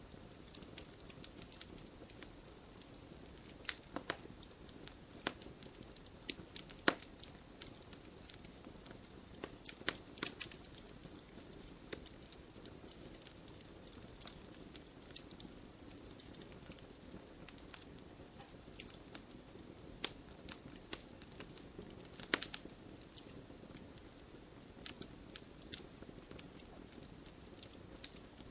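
Wood fire crackling and popping in a fireplace: a soft steady hiss with irregular sharp snaps, a few louder pops scattered among them.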